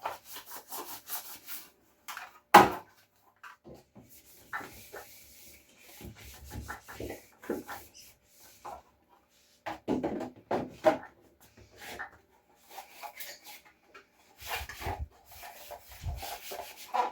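Cloth rubbing and wiping on refrigerator parts, mixed with irregular knocks and clatters as the parts are handled; one sharp knock about two and a half seconds in is the loudest sound.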